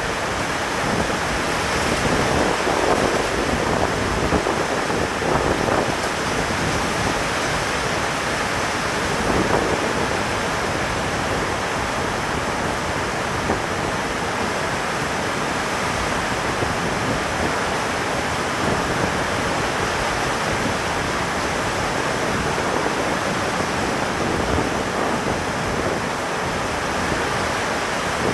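Rain falling steadily: a loud, even hiss with no letup.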